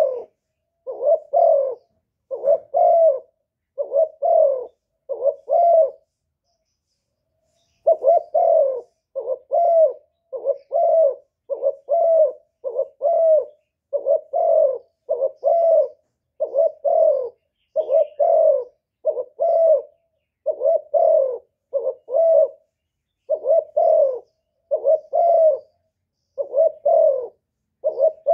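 Spotted dove cooing over and over in short low coos, mostly in pairs, with one pause of about two seconds near a quarter of the way in. It is a decoy bird's call, the kind used to lure wild doves in for trapping.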